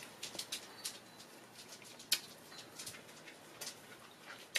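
A person chewing a mouthful of fried rice: faint, scattered wet clicks and smacks of the mouth, one sharper click about two seconds in.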